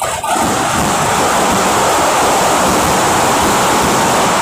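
A dense, continuous fireworks barrage, its bangs merging into one loud, steady rushing noise.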